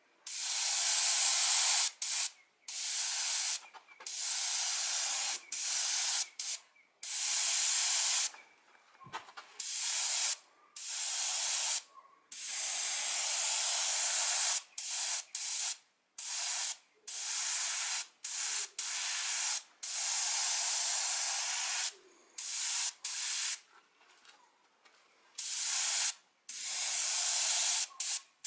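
Small paint spray gun hissing in about twenty short bursts, stopping and starting every second or two, as paint is sprayed in short strokes.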